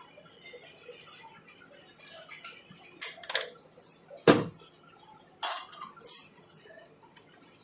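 Small hard objects clicking and clinking against a hard work surface: a few scattered knocks, the loudest about four seconds in.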